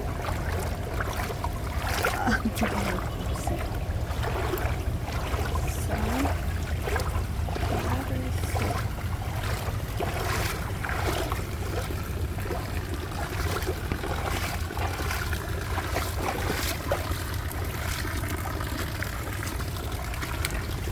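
Legs wading through deep floodwater, sloshing and splashing with each step, over a steady low rumble.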